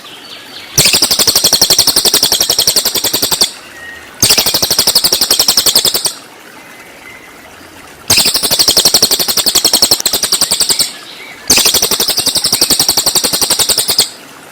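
Cililin birdsong in its rapid 'tembakan' (shot) phrases: four long bursts of fast, rattling repeated high notes, each lasting two to three seconds, with short pauses between.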